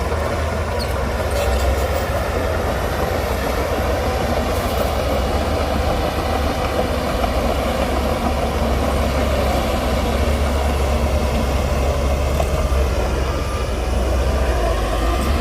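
Heavy diesel engine of earthmoving machinery running steadily under load, a deep constant rumble.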